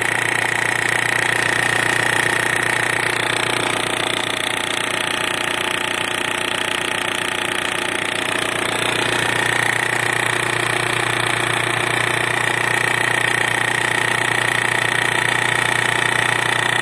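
Mitsubishi L200's 4D56 four-cylinder diesel running at idle with its balance-shaft belt fitted, a steady, fast knock running through it. The mechanics trace the knock to the right-hand balance shaft, the one turned backwards through an idler gear; with the belt removed the engine runs smoothly.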